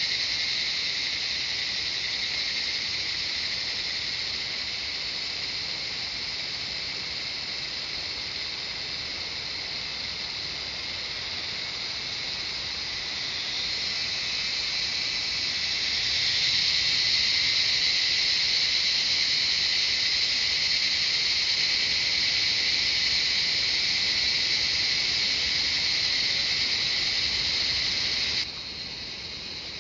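Chorus of cicadas singing, a steady high-pitched buzz that swells about halfway through. Near the end the buzz cuts off suddenly, leaving a fainter hiss.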